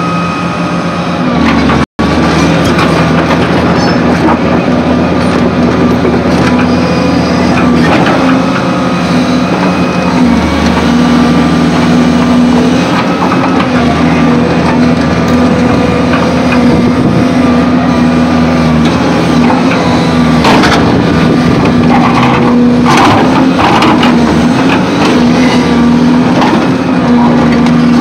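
Volvo excavator's diesel engine running steadily under load, with scattered knocks and scrapes of rock against the bucket, the loudest cluster about two-thirds of the way through. The sound drops out for a split second about two seconds in.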